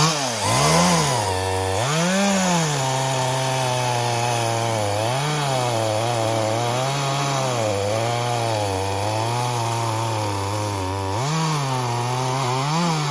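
Chainsaw revving up sharply at the start, then held under load cutting into wood, its pitch sagging and recovering again and again. Near the end it revs up and drops back a few times.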